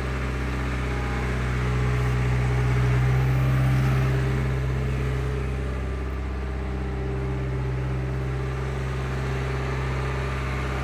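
Skid steer engine running steadily, its note swelling a little about two to four seconds in.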